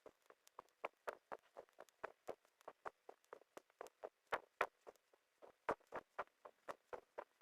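Quiet, irregular light taps or clicks, about three to five a second.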